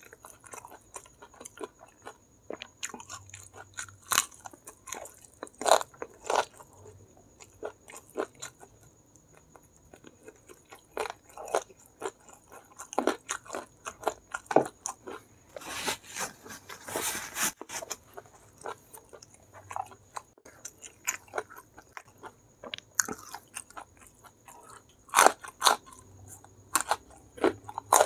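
Close-up chewing of crispy battered fried chicken: wet, crackly crunches that come in irregular bites and chews, with a denser run of crunching about halfway through.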